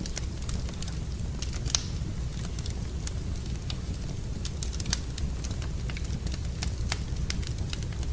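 Wood fire burning in a fireplace: a steady low rumble of flames with irregular crackles and snaps from the burning logs, and a sharper pop about two seconds in and another about five seconds in.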